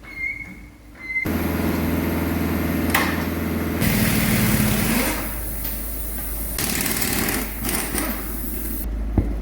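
A small motor starts up about a second in and runs steadily, its note changing about four seconds in, then cuts off briefly just before the end.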